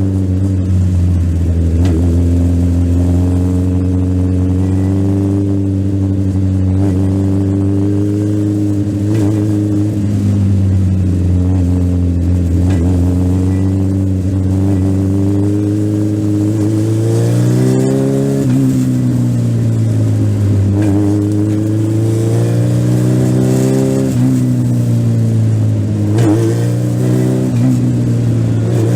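Legend race car's engine heard from on board, held at high revs with its pitch sagging and rising gently several times. About 18 seconds in, it briefly climbs and then drops back.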